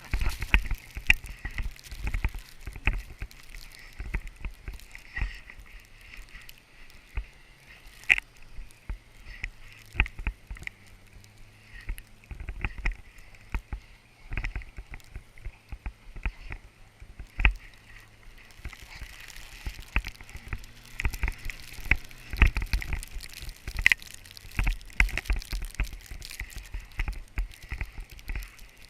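A Jeep's engine running with its tyres churning through snow and slush, under many irregular knocks and rattles, with a quieter stretch in the middle.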